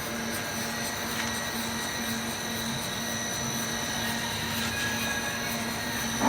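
CNC lathe running: a steady mechanical hum with a constant high whine, and a short knock at the very end.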